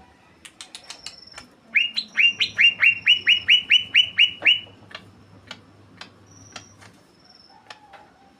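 Green leafbird (cucak ijo) singing continuously: a loud rapid run of about a dozen repeated rising notes, about four a second, among sharp chips and short high whistles.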